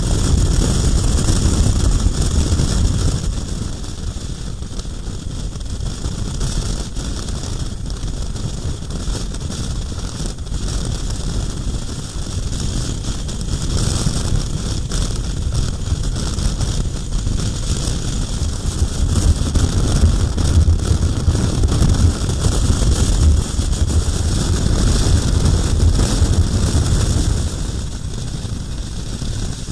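Wind rushing and buffeting over the microphone of a moving KTM 1090 R motorcycle, with road and engine noise underneath. It swells and eases, louder at the start and again in the second half.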